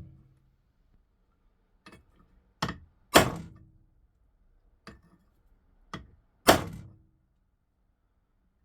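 A big socket set on a cylinder head's valve spring retainer being struck: about six sharp smacks at uneven gaps, the loudest about three and six and a half seconds in, each with a short ring. Each smack compresses the valve spring so the valve keepers can pop free.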